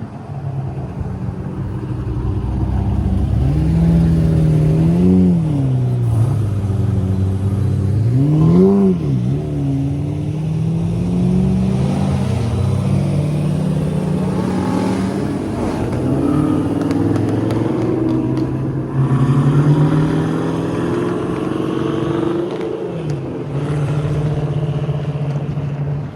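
Sports car engines running in a convoy, with two quick revs that rise and fall about 5 and 9 seconds in, then a steady drone with a second engine note slowly climbing in pitch.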